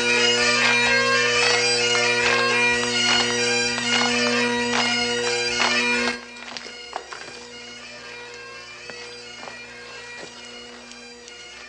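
Bagpipes playing a lively tune over steady drones. About six seconds in the sound drops suddenly and the pipes go on much quieter.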